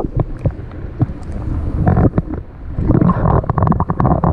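Wind rumbling on the microphone, with scattered short knocks and rattles from handling gear.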